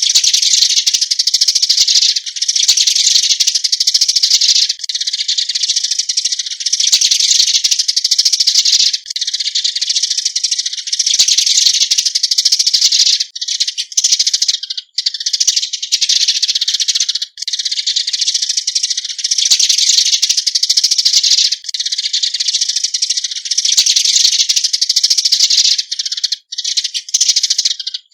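Eurasian tree sparrows giving their flock-gathering calls: a dense, rapid chatter of chirps that runs on almost without a break, with a few short pauses.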